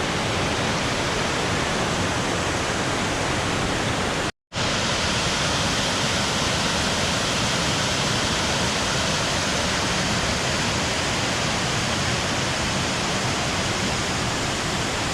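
Waterfall rushing close by: a steady, even noise of falling water. It cuts out completely for a split second about four seconds in.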